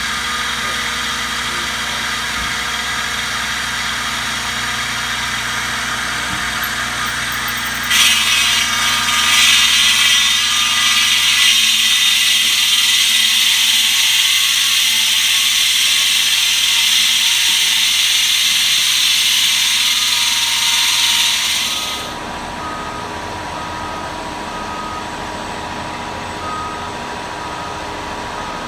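Machinery engine running steadily. About eight seconds in, a loud hiss joins it, and both stop abruptly near 22 seconds, leaving a quieter steady hum with a faint repeating tone.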